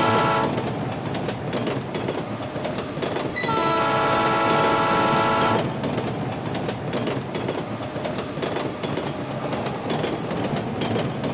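Train horn sounding a steady chord of several tones, cutting off about half a second in and blowing again for about two seconds from three and a half seconds in, over the continuous rumble and clickety-clack of train wheels on the rails.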